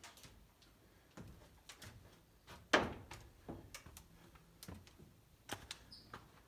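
Scattered knocks and clicks in a bare, gutted room, with one louder knock about three seconds in. A faint bird chirp comes near the end.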